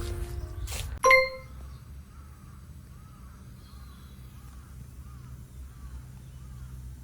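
Background music stops about a second in and a single bright ding rings out and dies away quickly. After it come faint, evenly repeated chirping calls over a low steady hum.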